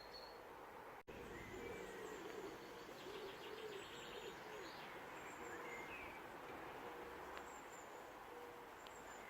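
Faint garden birdsong: a pigeon cooing low and repeatedly, with higher chirps and song phrases from small birds over it.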